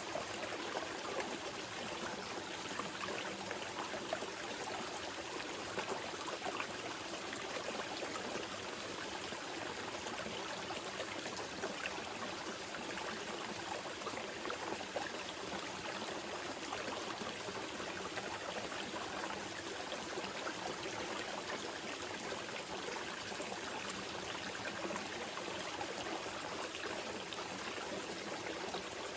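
Small mountain river flowing steadily over rocks, a constant rushing and babbling of water with fine splashes and no breaks.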